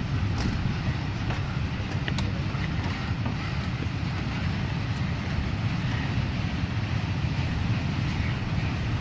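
Steady low rumble of a train running, with a couple of faint clicks in the first two seconds.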